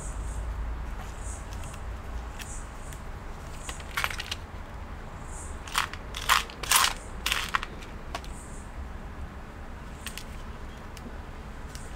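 Hands handling small objects: a few short crunching, crinkling bursts about four seconds in and again around six to seven and a half seconds, with scattered light clicks over a low steady hum.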